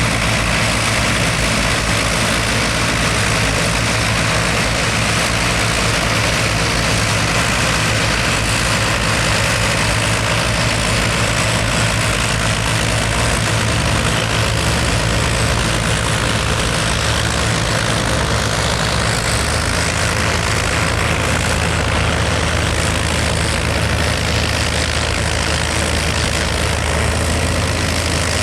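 Heavy tractor diesel engine running steadily, with small shifts in engine speed about halfway through.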